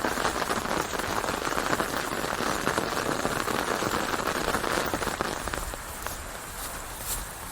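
Steady rain falling, a dense patter of drops on a surface, letting up a little near the end.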